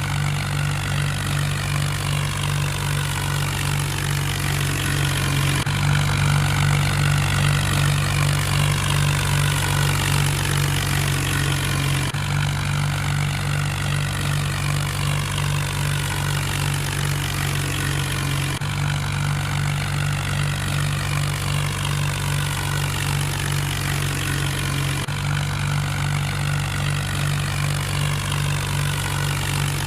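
Mahindra tractor's diesel engine running steadily at a constant speed, with a slight break in the sound about every six and a half seconds.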